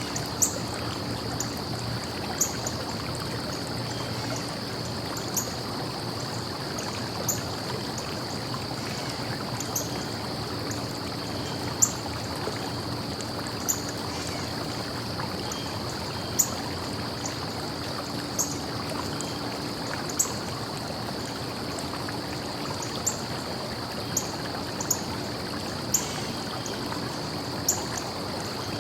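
A small stream flowing and trickling steadily, with short, sharp high ticks every second or two over the even rush of water.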